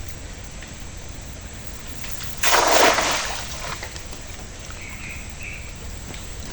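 A single splash of water about two and a half seconds in, lasting about a second and fading, over steady low outdoor background noise.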